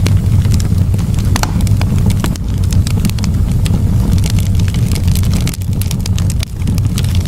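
Campfire burning, the wood crackling and popping in quick irregular snaps over a steady low rumble.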